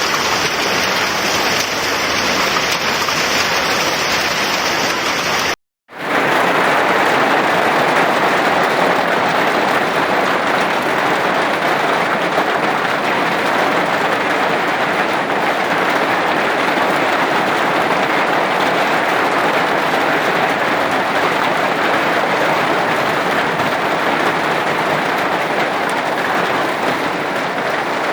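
Hailstorm: hail and heavy rain pelting down in a dense, steady rush. About six seconds in it cuts out for a moment and resumes.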